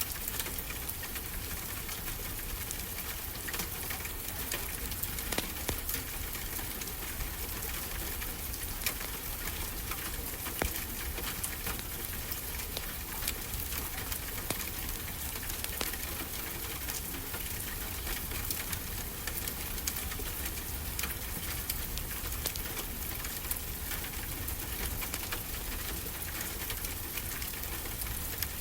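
Wood fire crackling, with frequent small sharp pops scattered throughout, over a steady wash of ocean surf and a low rumble.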